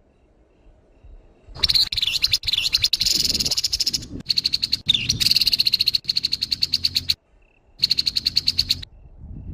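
Grey-headed babbler (tepus kepala abu) giving its harsh call: fast, dry rattling chatters in long bursts starting about a second and a half in, with a brief break near seven seconds before one more rattle.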